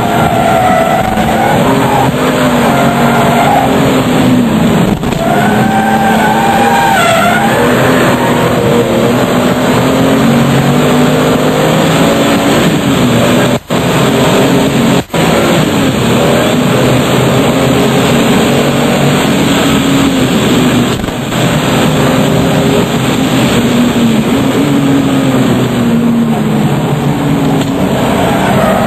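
RUF CTR Yellow Bird's twin-turbocharged flat-six running hard, its pitch climbing through the revs and dropping back again and again as it shifts and lifts. The sound cuts out twice, very briefly, about halfway through.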